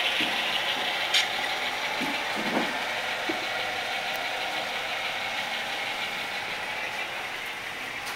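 Diesel engine idle sound from an HO model locomotive's sound decoder, a steady low hum that slowly grows fainter. There is one sharp click about a second in.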